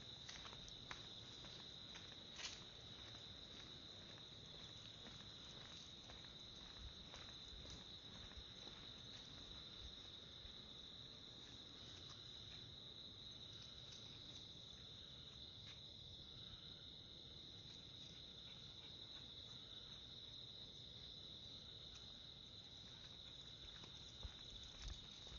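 Faint, steady high-pitched insect trilling that holds one even pitch throughout, with a few soft clicks near the start and again near the end.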